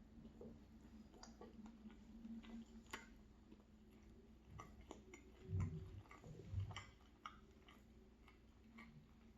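Close-up chewing of an egg and sausage bagel: soft, wet mouth clicks and small crunches, with two low soft thumps about five and a half and six and a half seconds in.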